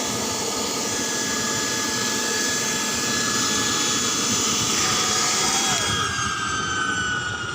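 Experimental homemade turbojet engine running with a loud rush and a high turbine whine. About six seconds in the hiss drops and the whine slowly falls in pitch as the engine spools down. The builder judges that the engine needs more air.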